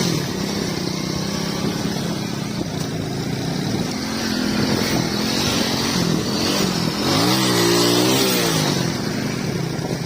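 An engine running steadily. About seven seconds in its pitch rises and then falls back over roughly two seconds.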